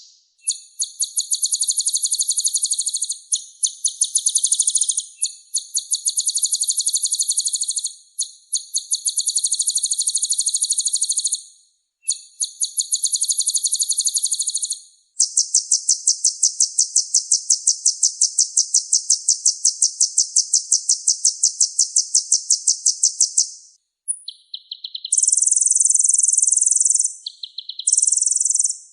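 Kolibri ninja sunbird singing: rapid, very high-pitched trills in a run of phrases with short pauses between them, then one long unbroken trill and a few short varied phrases near the end.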